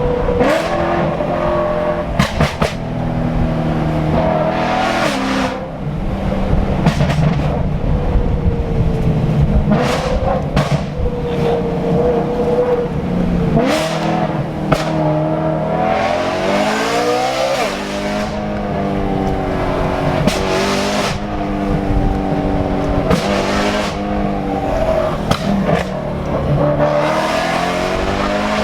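Straight-piped BMW E90 M3's S65 V8 revving hard through the gears, its pitch climbing and falling again and again, with sharp exhaust cracks on the downshifts.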